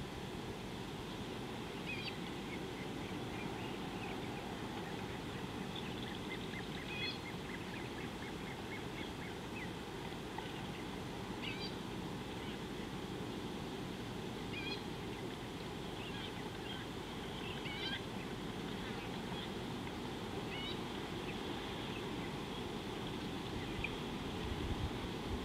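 Wild birds chirping and calling now and then, in short high notes, over a steady low background hiss of wind and outdoor ambience.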